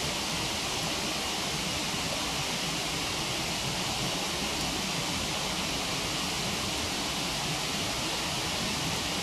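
Steady rush of a waterfall, an even roar of falling water with no change in level.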